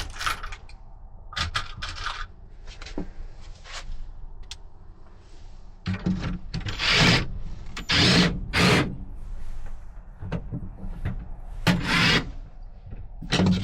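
Wooden pieces being handled and fitted into place: scattered knocks and clicks, and several loud scrapes of wood rubbing on wood, mostly in the second half.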